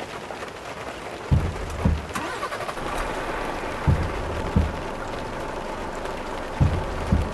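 A vehicle running on the road, with pairs of short, deep thumps repeating about every two and a half seconds over steady road noise.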